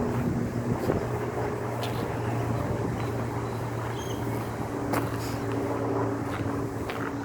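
A steady low motor-vehicle engine drone. Its tone shifts up slightly about five seconds in, with scattered light ticks over it.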